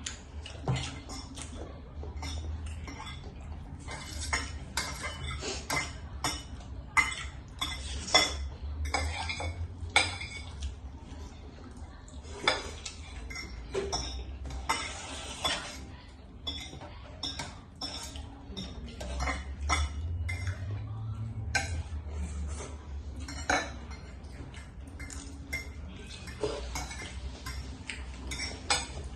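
Eating utensils repeatedly clinking and scraping against a shared tray of instant noodles, in short irregular knocks, over a steady low hum.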